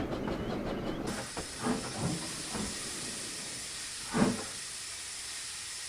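Steam locomotive letting off steam: a steady hiss that starts suddenly about a second in, with a few short, fainter sounds over it.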